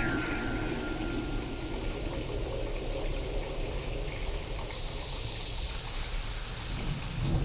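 Steady rain from a storm recording processed to sound alien. A faint held electronic-sounding tone, left over from a sweep just before, fades out in the first couple of seconds.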